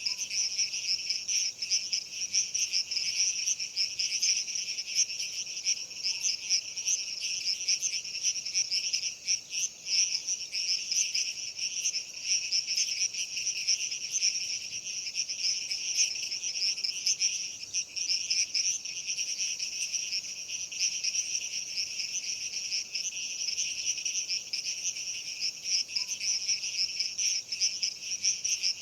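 A dense chorus of crickets chirring steadily, high-pitched and unbroken.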